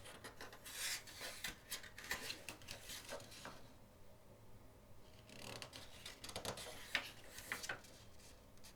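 Glossy pages of a photobook being handled and turned: two spells of paper rustling and soft clicks, a few seconds apart.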